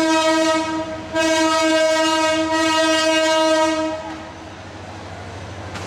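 Locomotive horn blowing: a long steady note that breaks off briefly about a second in, then a second long blast that stops about four seconds in. A quieter steady rumble remains after it.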